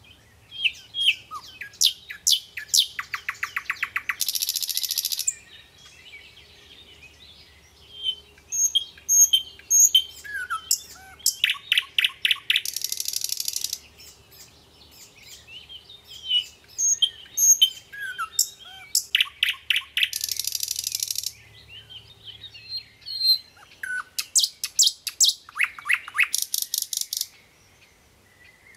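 A songbird singing: phrases of quick chirps, fast trills and harsh buzzing notes, with the same kind of phrase coming round about every eight seconds.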